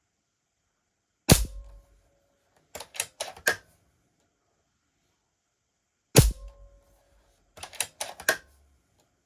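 Airmaks Caiman X PCP air rifle fired twice, a sharp crack each time, with a quick run of metallic clicks about a second and a half after each shot as the action is cycled for the next pellet. The shots come from a test string to check whether the repaired, now properly venting regulator holds the power steady.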